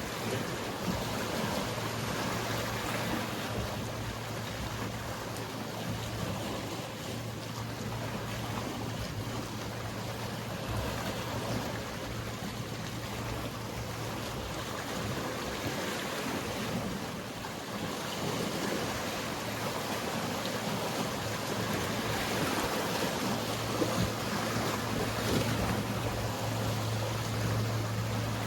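Sea waves washing against the shore under the steady low hum of a boat's engine. The hum fades in the middle and comes back louder near the end.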